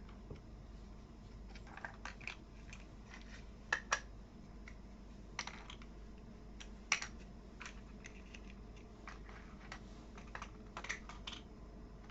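Small plastic toy building pieces clicking and tapping irregularly as they are handled and pressed together, with two sharp clicks in quick succession about four seconds in and another a few seconds later.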